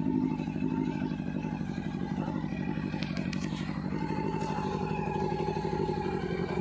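Custom cafe-racer motorcycle's engine idling steadily, with an even, rapid exhaust pulse. A few light clicks come about halfway through.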